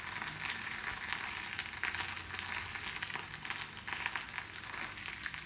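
Thinly sliced potato and mushrooms frying in oil in pans: a steady sizzle dotted with fine crackles.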